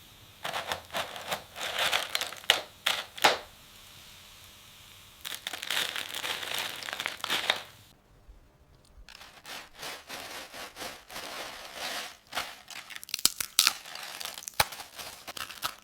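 Plastic snack packaging crinkling and crackling as it is handled, in irregular bursts with sharp crackles and a short pause about halfway through.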